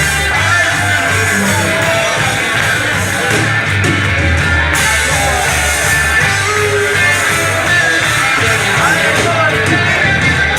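Rock music: a band playing, with guitar over a steady bass line.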